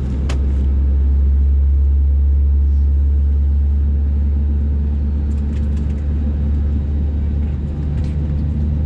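Steady low rumble in the cabin of an Airbus A320neo on the ground after pushback, its engines running at idle as it moves towards the runway, with a single sharp click just after the start.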